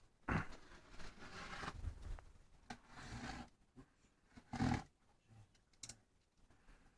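A cardboard box being torn open: ripping and scraping of the tape and cardboard in irregular stretches, with a sharp tear about a second in and a louder one past the middle, and a few small clicks.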